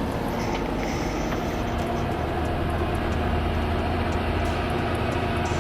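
A heavy vehicle's engine running steadily, with a low hum that grows stronger about two seconds in.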